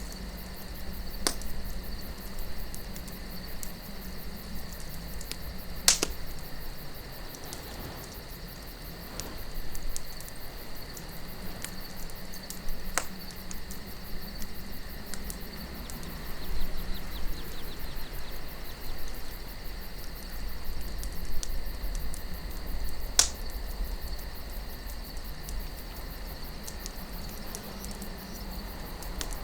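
Campfire crackling, with a few sharp pops of burning wood, the loudest about 6 and 23 seconds in. Steady cricket chirping and a soft, low wind run beneath it.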